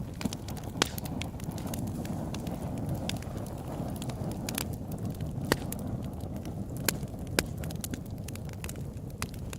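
Open-air wood campfire burning with a steady low roar and scattered sharp crackles and pops, a few louder snaps about a second in and again around five and a half to seven and a half seconds.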